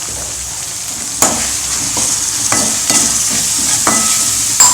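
Onion, tomato and spice-powder masala sizzling in hot oil while a metal spoon stirs it. The spoon knocks against the pan about five times, and some knocks ring briefly.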